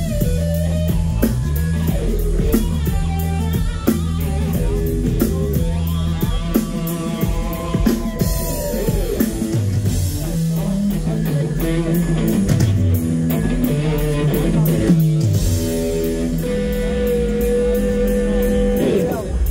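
Live rock band playing: an electric guitar melody with pitch bends and a long held note near the end, over a stepping bass line and a drum kit with steady cymbal ticks.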